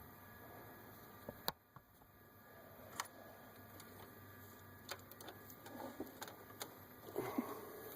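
Scattered light clicks and knocks from a wrench on the serpentine belt tensioner and the belt being worked over the alternator pulley, with a few quicker knocks near the end.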